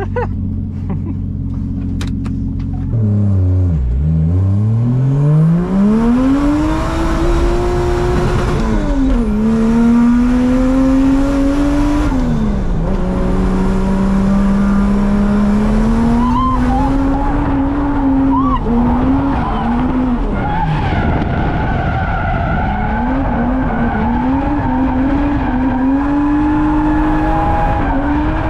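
Drift car's engine idling, then revving hard as it accelerates, the pitch climbing and dropping back again and again at gear changes and throttle lifts before staying high, with tyres squealing as the car slides.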